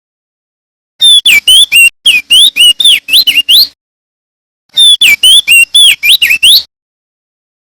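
Male opior jambul (crested dark-eye) singing loudly: two quick phrases of rapid, swooping whistled notes, each two to three seconds long, with about a second of silence between them.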